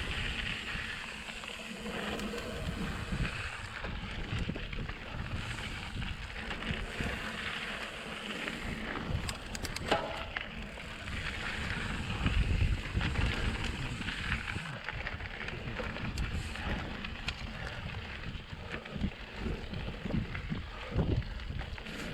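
Mountain bike ride heard through a GoPro's microphone: wind on the microphone, tyres rolling over a dirt trail and the bike rattling, with a few sharp clicks about ten seconds in.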